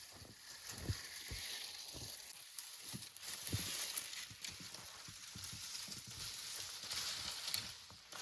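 Campfire burning with a steady hiss and fine crackling, and a few soft low knocks.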